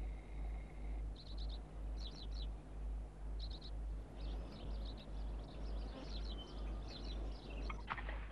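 Small birds chirping in short, quick bursts, sparse at first and getting busier after a few seconds, over a low pulsing hum. A few sharp knocks come in near the end.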